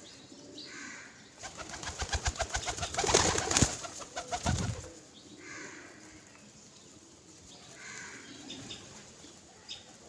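Pigeons cooing, with a burst of fast, rattling noise in the middle that is the loudest part.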